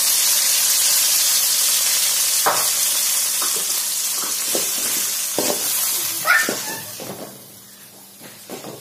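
Freshly ground tomato purée sizzling in hot oil over sautéed shallots in a kadai. The sizzle dies down after about six seconds, and a metal ladle scrapes and knocks against the pan as it stirs.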